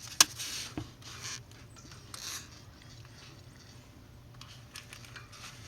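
Light handling noise: one sharp click near the start, then a few soft clicks and brief rustles.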